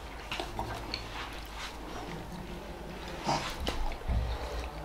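Chewing and wet mouth sounds of a man eating steamed momo dumplings quickly, with scattered small clicks and a couple of louder smacks about three and four seconds in.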